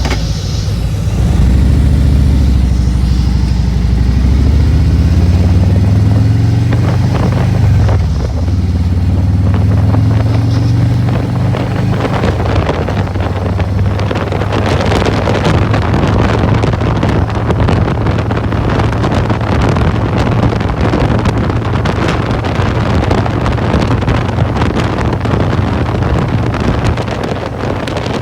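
Harley-Davidson Road Glide's Milwaukee-Eight 107 V-twin pulling away and accelerating, its pitch rising with a brief drop about eight seconds in as it shifts gear. It then settles into a steady cruise under loud wind buffeting on the microphone.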